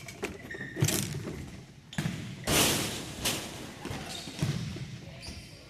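Futsal ball being kicked and bouncing on an indoor court, a series of sharp thuds echoing in the hall.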